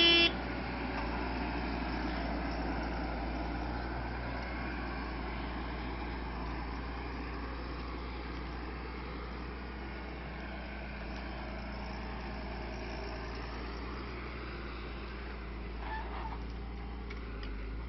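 New Holland T7040 tractor engine running steadily, a low drone. A short horn blast sounds right at the start, and a brief bird call near the end.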